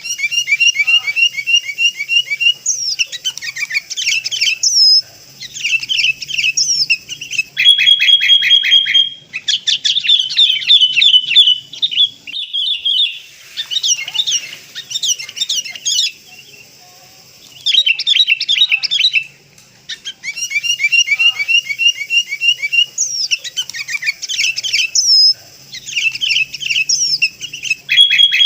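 Sooty-headed bulbul calls played as a lure recording: bursts of rapid, bright chirping notes and trills with short pauses between them, the same phrases coming round again as a loop.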